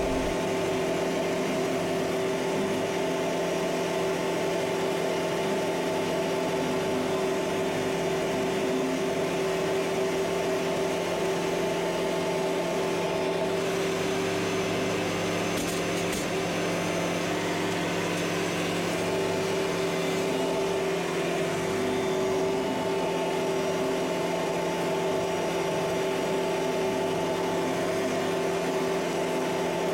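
Kubota MX5800 tractor's diesel engine running steadily under a constant throttle, an unchanging drone with no rises or falls in pitch.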